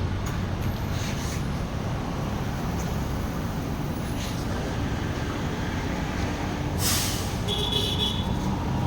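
A motor vehicle runs with a steady low rumble. A short hiss comes about seven seconds in, followed by a brief high beep.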